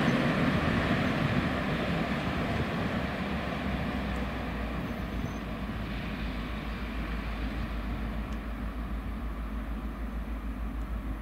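Train hauled by a PKP class EU07 electric locomotive passing through the station, its rolling noise slowly fading. A low, rapid pulsing comes in about halfway through.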